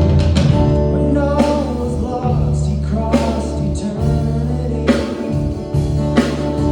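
Live church worship band playing a song with singing over guitar, steady bass notes and drum hits.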